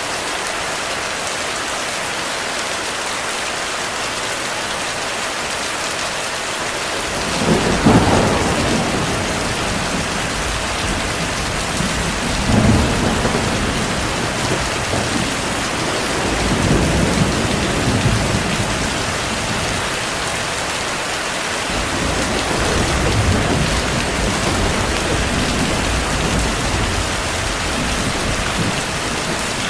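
Heavy rain falling steadily, with thunder rolling in about seven seconds in: a sharp clap first, then low rumbling that swells and fades in waves through most of the rest.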